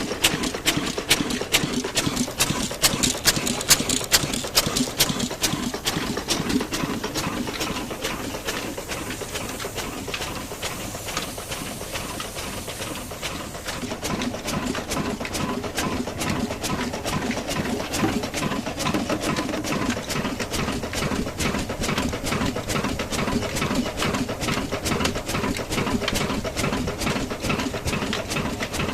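Large stationary engine driving a flour mill, running steadily with a fast, even knocking beat that eases slightly for a few seconds about a third of the way through.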